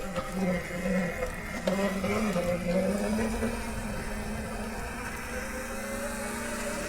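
Nexvey Flash electric dirt bike's motor whining as it climbs a rough trail, its pitch wavering up and down with the throttle. A few knocks from the bike jolting over rocks come early on and about two seconds in.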